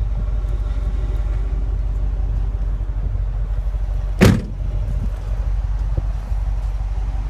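Car trunk lid shut with a single loud thump about four seconds in, over a steady low rumble.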